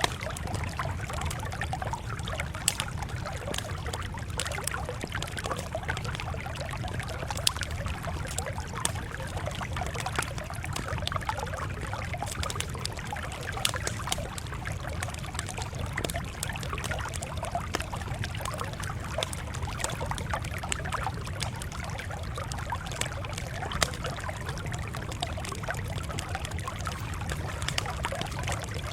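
Campfire crackling steadily, with sharp pops every few seconds, over a low steady rumble.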